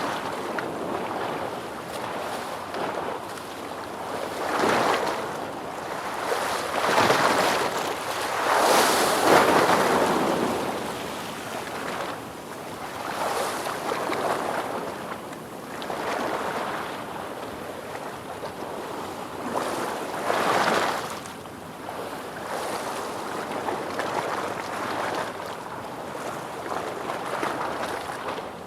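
Ocean waves surging and washing in, rising and falling in swells; the biggest wave comes about eight to ten seconds in, and another sharp surge comes about twenty seconds in.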